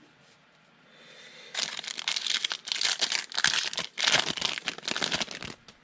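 Foil wrapper of a trading-card pack crinkling and tearing as it is opened, starting about a second and a half in and stopping shortly before the end.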